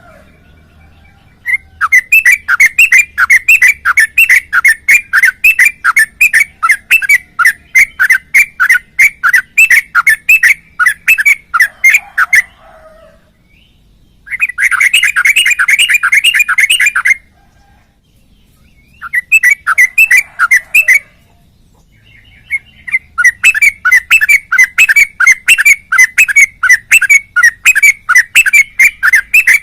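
Yellow-vented bulbul singing in long, fast runs of repeated chirping notes, broken by a few short pauses; one stretch near the middle is a dense, unbroken trill.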